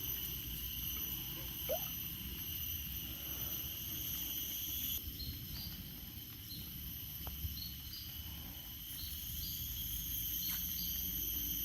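Insects droning steadily in a high, even tone, with short chirps repeating from about halfway through, over a low rumbling background.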